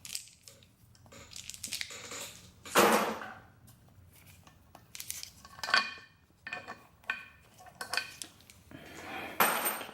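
Metal rocker arms being lifted off a 4G63 cylinder head and set down, clinking and rattling against other metal in a string of separate knocks, several with a brief ring. Two louder scraping clatters come about three seconds in and near the end.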